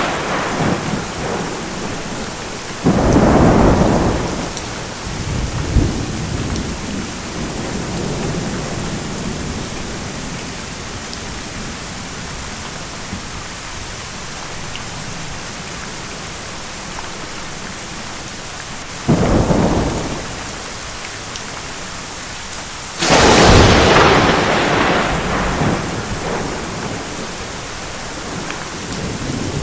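Steady heavy rain with three thunderclaps, each a sudden crack fading into a rumble over a few seconds; the third, near the end, is the loudest and rumbles longest.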